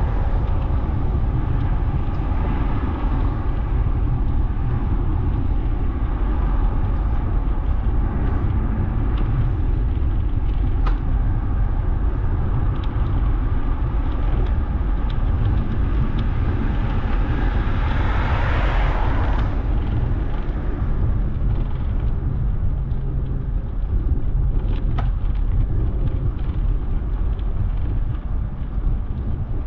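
Wind rumbling on the microphone of a camera riding along on a bicycle, with road traffic noise; a vehicle rushes past about two-thirds of the way through.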